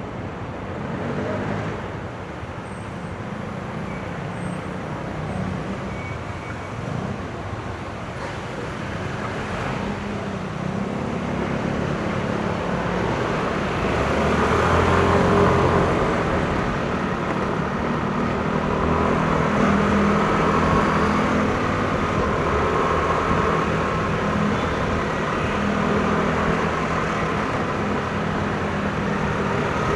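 Yamaha NMAX scooter's single-cylinder engine running under way, with wind and road noise. It grows louder as it picks up speed toward the middle, then holds steady.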